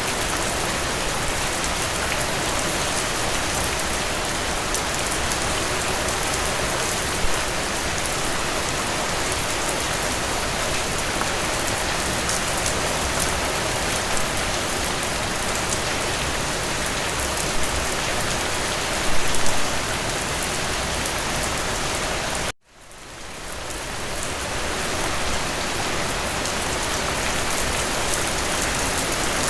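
Steady rain falling, an even dense patter. About three quarters of the way through the rain cuts out abruptly and fades back in over a couple of seconds: an edit splice in the recording.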